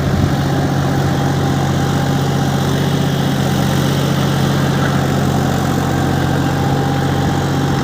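John Deere 5105 tractor's three-cylinder diesel engine running steadily at an even speed, with a low, unchanging note.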